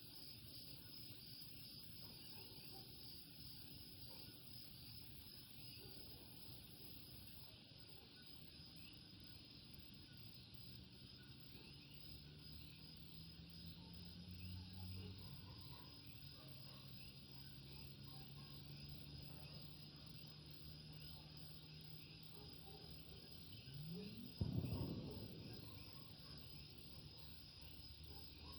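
A chorus of coquí frogs calling, with a steady high chirping and repeated short notes, faint throughout. A low hum rises in the middle, and about 24 seconds in a brief rising sweep ends in a short, louder thump.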